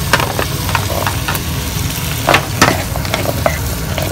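Cubes of potato and carrot sizzling in hot oil in a frying pan, with a spatula knocking and scraping against the pan as they are added and stirred; two louder knocks come about two and a half seconds in.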